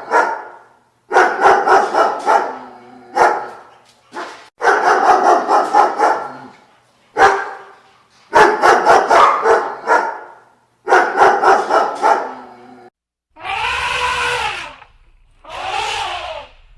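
A dog barking in quick volleys of rapid barks, about six volleys with short gaps between them. Near the end come two longer, drawn-out calls with a rising-then-falling pitch, from another animal.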